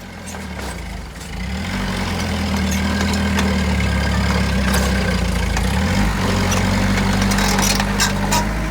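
Heavy machine's diesel engine running. It picks up about a second and a half in, holds steady, and dips briefly around six seconds in.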